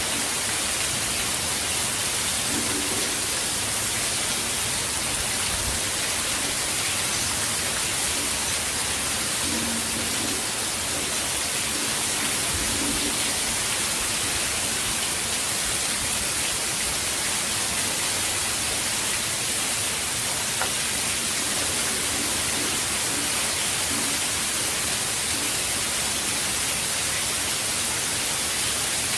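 Hurricane rain falling steadily: an even, unbroken hiss.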